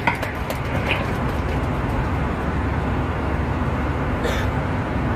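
Steady low rumble of an airliner's cabin, with a few sharp clicks at the start.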